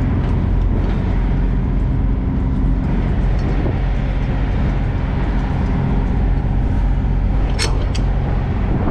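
Freightliner semi truck's diesel engine idling steadily, heard from inside the cab, with a couple of short clicks near the end.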